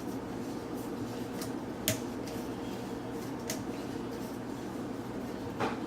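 Metal parts of a garbage disposal mount clinking as they are handled: a few sharp clicks, about two and three and a half seconds in, over a steady low hum.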